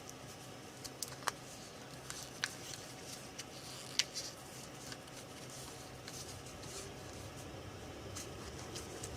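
Scattered light clicks and taps of small tools being handled at a workbench, over a steady low hum.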